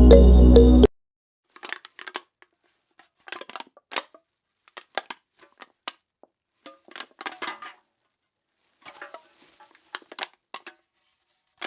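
Background music that cuts off about a second in, followed by scattered light clicks, taps and crinkling noises of small objects being handled.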